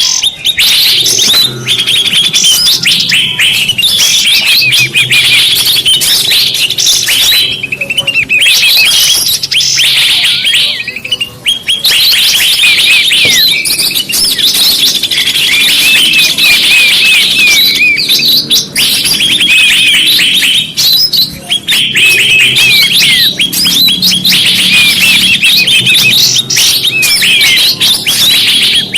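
Bird-lure recording used for trapping: a loud, dense chorus of many small birds chirping and twittering at once, with rapid high notes overlapping without a break.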